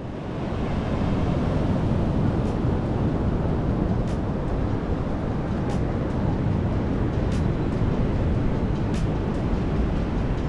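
Steady low rumble and rushing noise of a moving vehicle on the road, with wind on the microphone.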